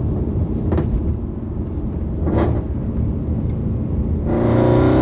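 Mercedes C63 AMG (W204) V8 with long-tube headers and stainless steel exhaust, a steady low rumble while cruising. It swells louder into a held, even note near the end.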